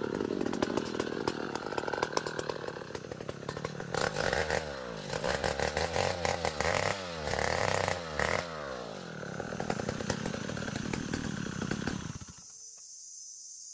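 Two-stroke chainsaw cutting ulin (ironwood), its revs rising and falling as it works through the wood, then shutting off about twelve seconds in.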